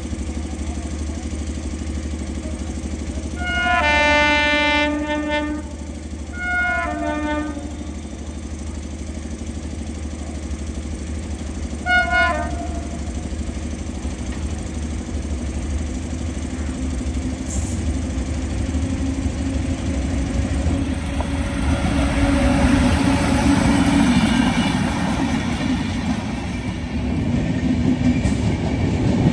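WAP-7 electric locomotive sounding its horn: a long blast, a shorter one a second later, and a brief toot about twelve seconds in. Then the passenger train runs past, its wheel and rail noise growing louder over the last several seconds.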